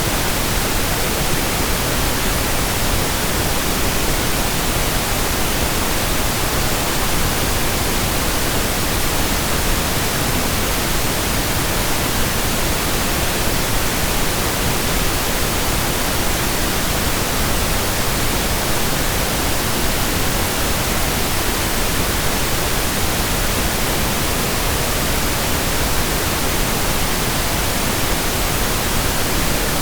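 Steady pink noise: an even, unchanging hiss spread across the whole range, fuller in the low end than white noise.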